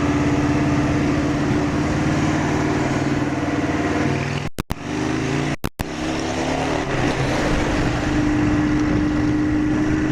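Honda Shadow 750's V-twin engine pulling hard on a steep uphill climb, its exhaust rumbling loudly and steadily. The pitch shifts a little just after the middle, and the sound cuts out briefly twice around the middle.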